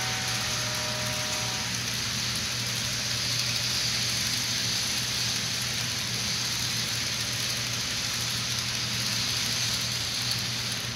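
Sound decoder of a Walthers Mainline GE ES44 model locomotive through its small speaker: a multi-note horn chord cuts off about two seconds in, then the diesel engine sound runs on steadily with a low hum and a steady hiss.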